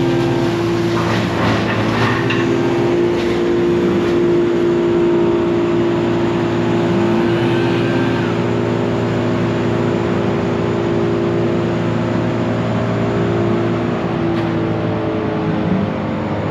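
Engine of the tree-removal crew's machine running steadily at high revs, with a few sharp knocks in the first few seconds. Its pitch drops slightly near the end.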